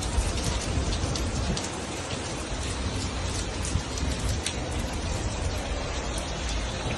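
Heavy rain beating down on hard surfaces, a dense steady hiss dotted with many sharp ticks of individual drops striking, over a low rumble.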